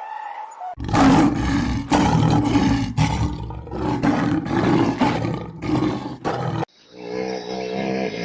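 A large animal roaring loudly in a series of rough calls with short breaks. About two-thirds of the way in it cuts off suddenly, and a quieter, pitched animal call follows.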